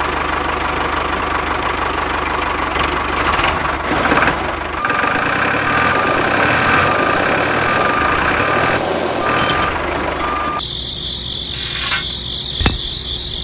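Mini tractor engine running steadily. About five seconds in, a short repeating beep joins it, roughly once a second. Near the end a different, brighter sound abruptly takes over.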